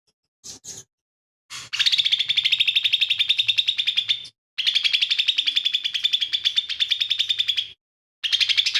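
Cucak ijo mini (a small green leafbird) singing. After a few short notes it delivers three long runs of rapid, evenly repeated chattering notes, each lasting a few seconds with brief breaks between.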